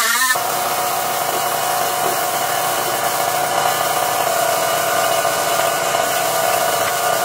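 A power tool's electric motor running steadily with a rush of air, then cutting off abruptly at the end.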